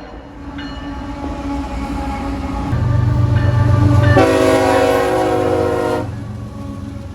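Diesel locomotive horn sounding: a fainter chord early on, then a loud blast of about two seconds starting about four seconds in. A low rumble from the locomotive swells just before the loud blast.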